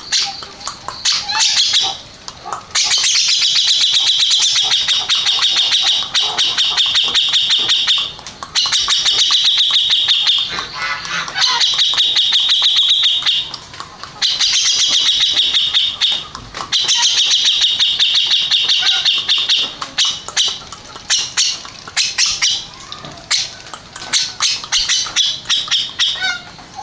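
Grey-cheeked bulbul (cucak jenggot) singing: long, fast, high-pitched chattering phrases of several seconds each, with short pauses between them, breaking into shorter choppy notes near the end.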